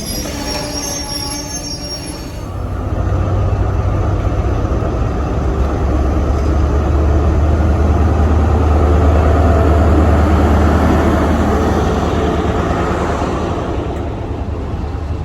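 Diesel train: thin high squealing for the first couple of seconds, then a deep engine drone that builds, is loudest about two-thirds of the way through and then eases off.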